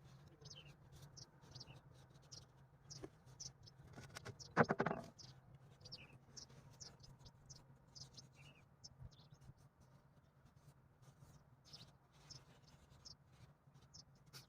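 Faint, irregular scratching and light clicks of hand work, over a low steady hum. One louder short sound comes about four and a half seconds in.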